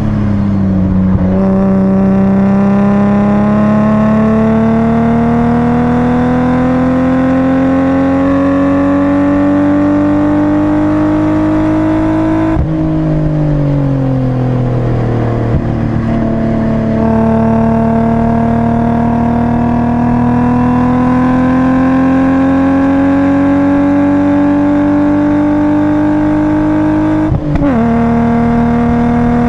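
BMW 328i's 2.8-litre straight-six heard from inside the cabin, pulling hard on track with its pitch climbing slowly. About halfway through it drops off suddenly and winds down for a couple of seconds, then pulls and climbs again. Near the end there is a quick dip to a lower pitch, like an upshift.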